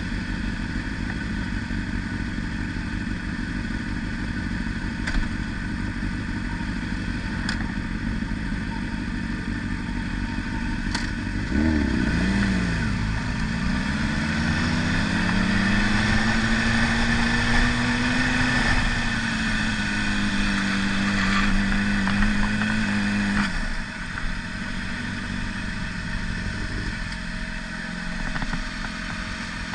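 Motorcycle engine under way with steady wind and road noise. About twelve seconds in, the engine note dips and then climbs as it accelerates, holds a steady pitch for about ten seconds, then eases off.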